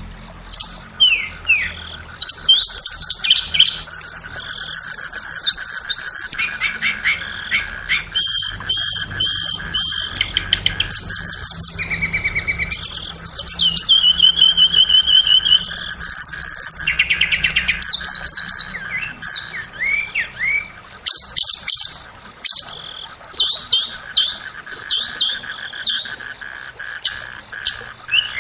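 Blue flycatcher (tledekan) song: a fast, varied stream of whistled notes, quick trills and chattering phrases, with brief gaps between bursts. A faint steady tone runs underneath.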